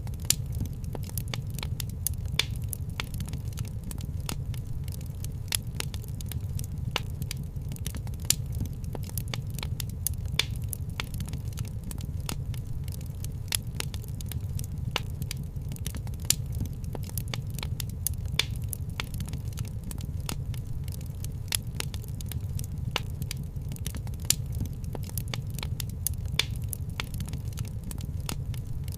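Wood fire crackling in a fireplace: a steady low rumble of burning with frequent sharp pops and snaps at irregular intervals.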